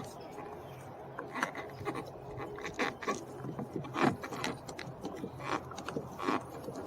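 Plastic car door trim panel being worked into place against the door: rubbing and scraping with irregular light knocks and clicks, the loudest knock about four seconds in, as its clips are lined up.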